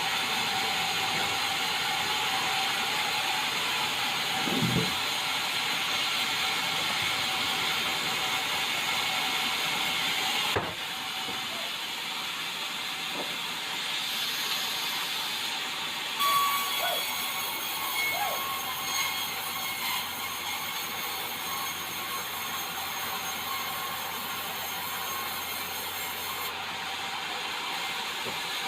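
Swing-blade sawmill running and sawing white meranti: a steady, loud, hissing saw noise. It changes abruptly about ten seconds in and again about sixteen seconds in, with a few short knocks along the way.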